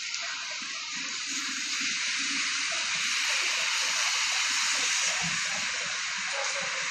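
Heavy rain falling, a steady hiss that swells slightly in the middle.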